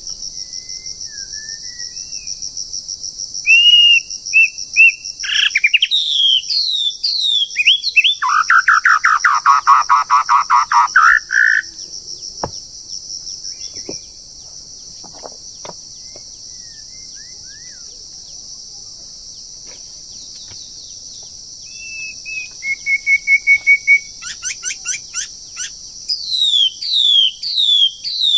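Birds singing in phrases of short whistled notes, quick falling sweeps and a fast warbling trill, over a steady high insect drone. The birdsong stops for several seconds in the middle, leaving only the drone, then comes back strongly near the end.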